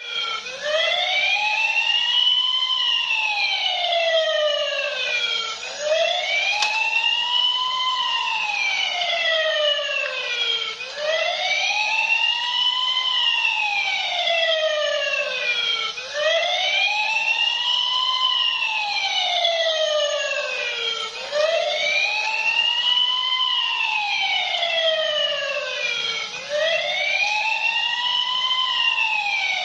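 Toy fire truck's electronic siren wailing: a slow rising-then-falling tone that repeats about every five seconds, over and over.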